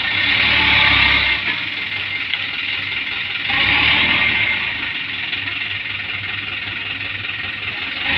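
Diesel engine of a heavily loaded sand dump truck running, swelling louder twice, each time for about a second.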